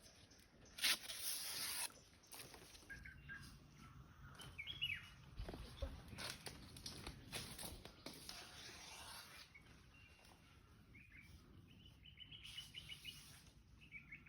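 Small birds chirping in short calls over quiet outdoor ambience, with a loud brief rush of noise about a second in and scattered soft rustling.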